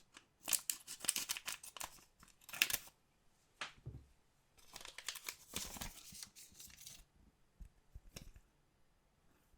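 Collectible card pack wrappers being torn open and crinkled by hand, in two spells of crackling and rustling, with a few light clicks near the end.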